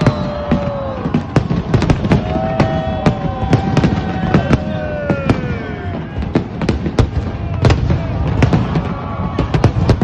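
Fireworks display: a rapid, irregular string of sharp bangs and crackles, with several long whistles that slide slowly down in pitch.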